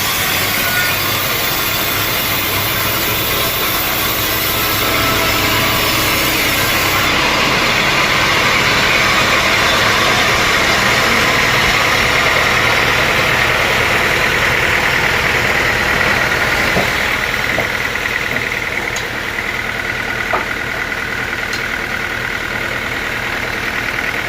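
Sawmill machinery running steadily, an engine hum under the dense hiss of the saw. It eases off slightly late on, with a few sharp ticks.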